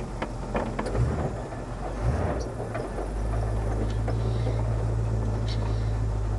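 1979 Camaro Z/28's V8 engine running at a low, even drone, with a few clicks and knocks over the first couple of seconds before the note settles.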